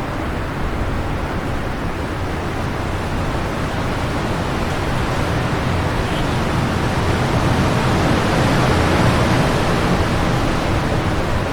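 Wind blowing steadily, swelling into a stronger gust about three-quarters of the way through.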